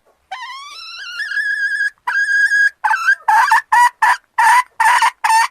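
Red junglefowl (wild rooster) calling. One long call rises in pitch and then holds. After a brief break comes a quick run of about seven short, harsh notes.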